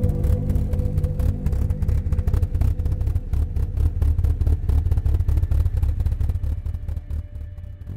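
Engine of a Healey by Caton roadster, a reworked Austin-Healey 100/4, running as the car drives, with a rapid, throbbing exhaust note that tapers off somewhat near the end.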